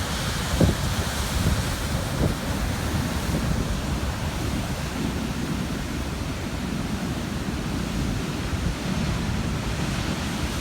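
Ocean surf churning and breaking on rocks at high tide, a steady rushing wash with a heavy low rumble, and wind buffeting the microphone.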